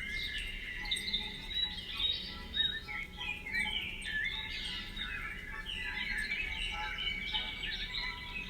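Several birds singing and chirping at once, a busy run of short, overlapping, quickly rising and falling calls.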